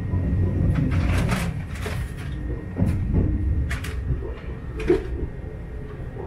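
Inside a sleeper train carriage: a steady low running rumble with several short knocks and rattles through it.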